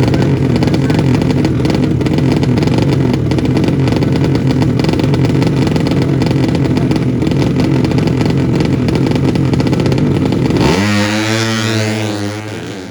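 A 200cc drag-racing motorcycle engine running hard at high revs, loud and rattly. About eleven seconds in the sound changes suddenly: its pitch drops and it fades away.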